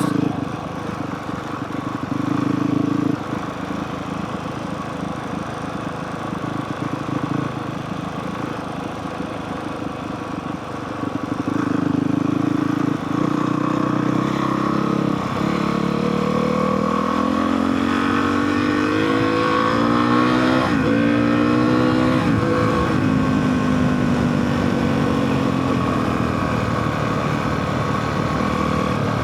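2023 Honda CRF450R Works Edition's single-cylinder four-stroke engine running on a dirt trail, steady at first; about twelve seconds in it gets louder, and its pitch then climbs steadily as the bike accelerates, with a sudden break at about two-thirds of the way through, after which the revs ease off.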